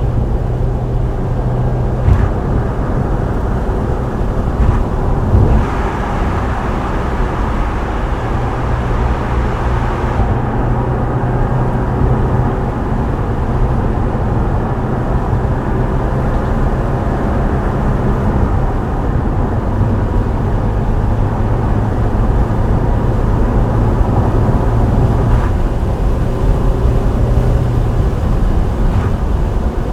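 Subaru WRX STI Spec C's turbocharged flat-four engine with an aftermarket A-RM exhaust, running steadily under way, mixed with tyre and road noise. The engine note shifts about five seconds in and again around twenty seconds.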